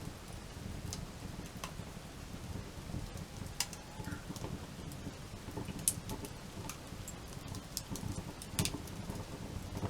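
Wood campfire crackling, with irregular sharp pops of burning wood, the loudest about a third of the way in, past halfway, and near the end, over a low steady rumble.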